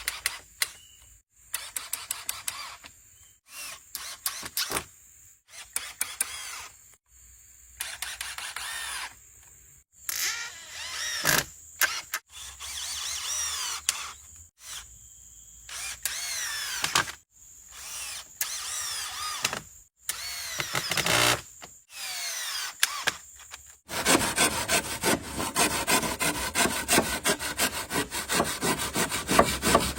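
Hand tools working wood in a series of short cuts: scraping and clicking, then dense, rapid rasping or rubbing strokes for the last several seconds.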